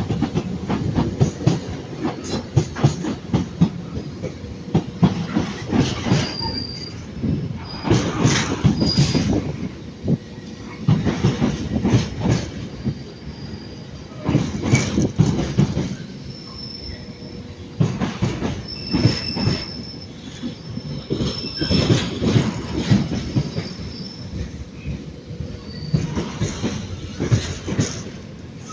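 Freight train rolling through, its wagon wheels clattering over the rail joints in repeated clusters every few seconds, with high wheel squeal coming and going.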